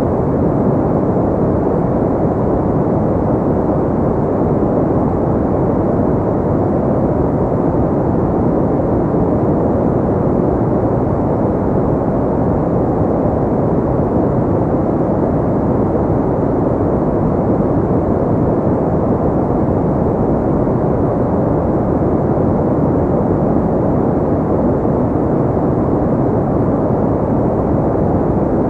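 Steady generated pink noise: an unchanging, deep rushing hiss weighted toward the low end, with little treble.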